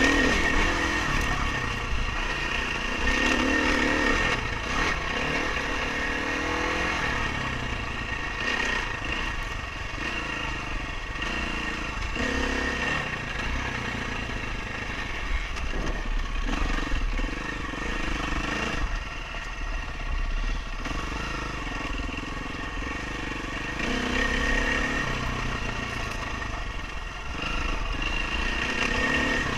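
Dirt bike engine being ridden hard off-road, its revs rising and falling every second or two through throttle changes, with occasional knocks from the rough track.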